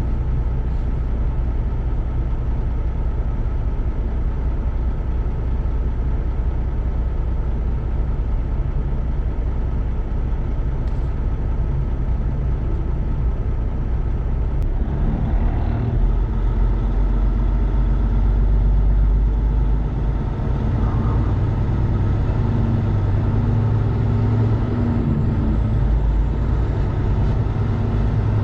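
Semi-truck's diesel engine heard from inside the cab, running steadily at idle; about halfway through the engine note rises and strengthens as the truck moves off, with a brief rise and dip in pitch a few seconds before the end.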